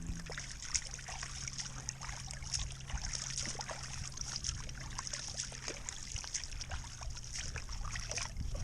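Water trickling and dripping with many small irregular splashes, over a steady high hiss and a faint low hum.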